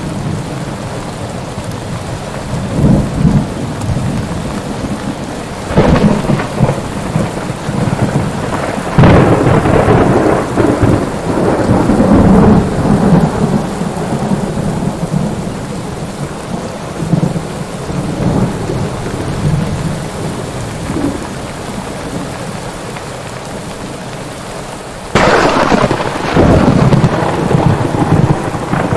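Thunderstorm: steady rain with repeated thunder. Sharp cracks come about 6 and 9 seconds in, each followed by long rolling rumble, and another sudden loud crack comes near the end.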